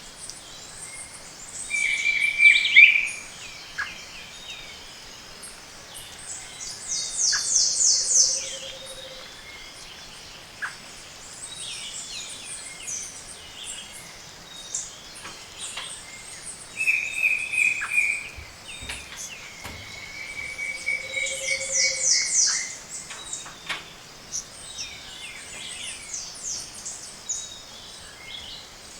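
Dawn chorus of tropical montane forest birds, many species calling over one another. Two loud phrases, each a clear held whistle followed by a fast high trill, come twice, with a soft low hoot alongside each.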